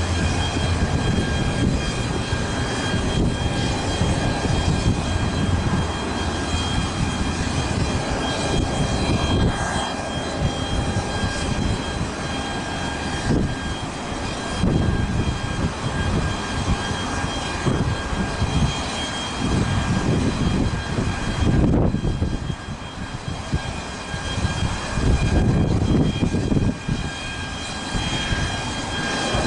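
Airplane engines running, a steady high whine over a loud, uneven rumble.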